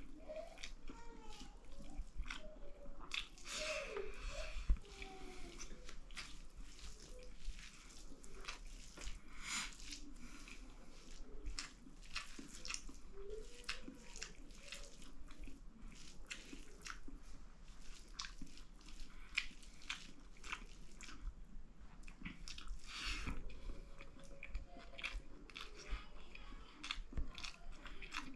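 A person chewing and smacking while eating rice, dal and lapsi pickle, with many short wet mouth clicks throughout.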